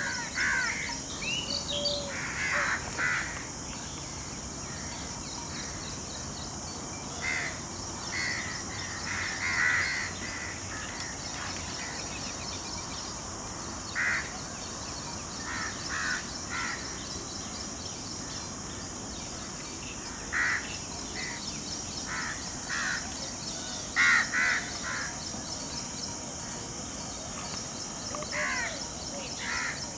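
Short, harsh bird calls at irregular intervals, some in quick clusters, over a steady high-pitched hiss.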